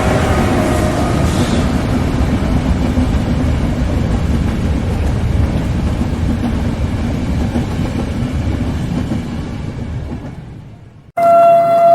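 A train passing with a steady rumble of wheels on rails, a horn note dying away at the start. The rumble fades out about ten seconds in, then a loud train horn cuts in abruptly, sounding a steady chord near the end.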